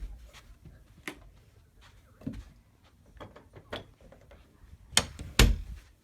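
Scattered small knocks and clicks, with two louder knocks about half a second apart near the end.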